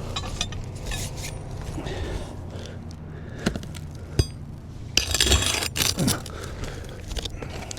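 Metal shingle-removal tool scraping and prying against asphalt roof shingles, with a few sharp metallic clicks and a longer scrape about five seconds in.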